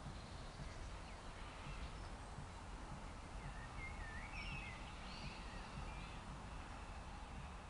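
Quiet outdoor ambience: a steady low rumble with a few short bird chirps and twitters about halfway through.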